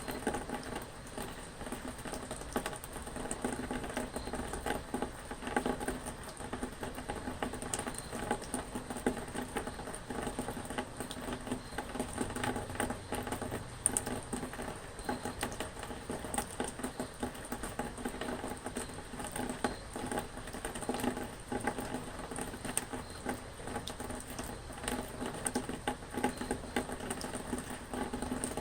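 Rain falling steadily, a dense, irregular run of small drops striking a surface.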